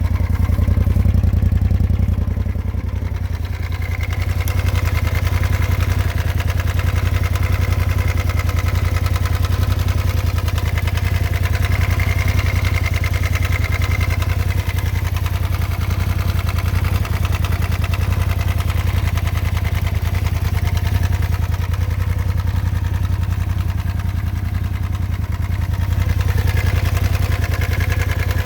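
A 2018 Polaris RZR side-by-side's engine idling steadily, with a low, even running note. The owner presents this as the engine noise they want to show.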